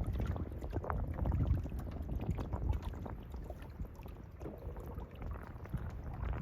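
Canoe paddle strokes: the paddle dips and water splashes and trickles off it and along the hull, over a low wind rumble on the microphone.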